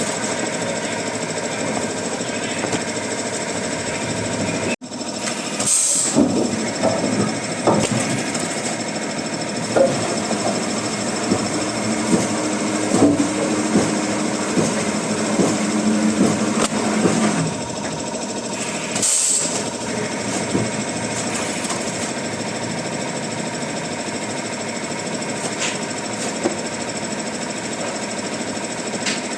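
Wood-processing machinery running in a workshop, a steady rapid mechanical clatter that breaks off briefly about five seconds in.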